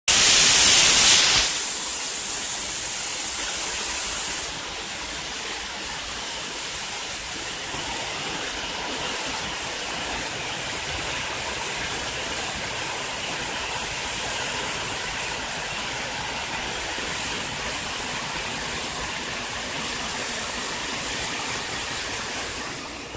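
Waterfall: the steady rush and hiss of falling water. It is loudest and brightest for about the first second, drops a little, then settles to an even level after about four seconds.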